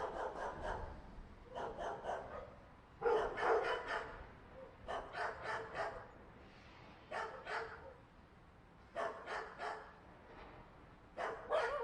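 Dog barking in short runs of a few barks, with a pause of a second or so between runs, about seven runs in all.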